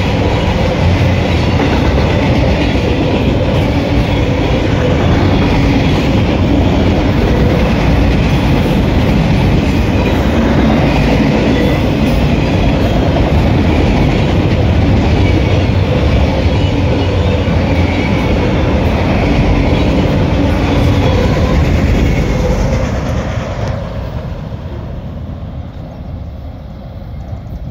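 Autorack freight cars rolling past close by, a loud steady rumble of wheels on the rails. It fades in the last few seconds as the end of the train moves away.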